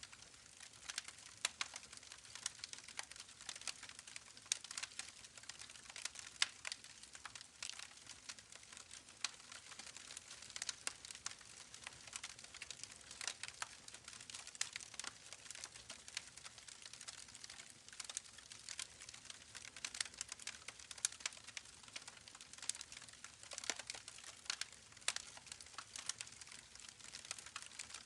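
Campfire crackling: a dense, irregular stream of small pops and snaps over a light hiss.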